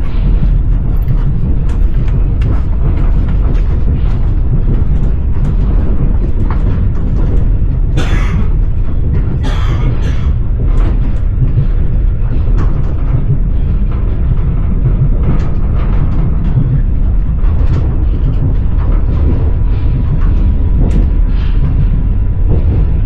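Passenger train running on rails, heard inside the carriage: a steady low rumble with irregular clicks and clacks of the wheels on the track.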